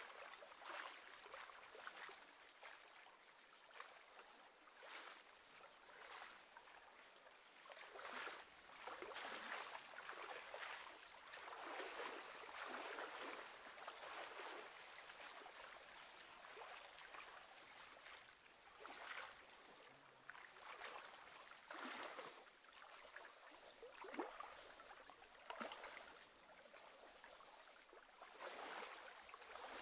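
Faint, uneven lapping and splashing of small waves on choppy lake water, swelling and falling irregularly.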